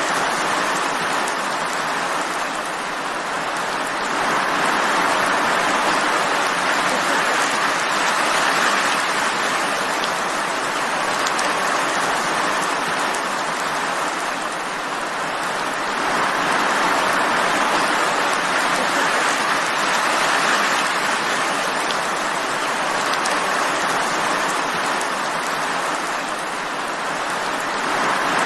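Steady rainfall, a dense even hiss of drops that swells and eases gently every ten seconds or so.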